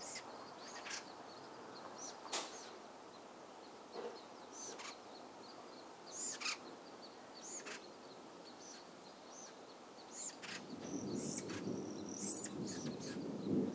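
Birds chirping outdoors: short high calls, about one a second, over a faint steady background hiss. From about ten seconds in, a low rumble grows louder beneath the chirps.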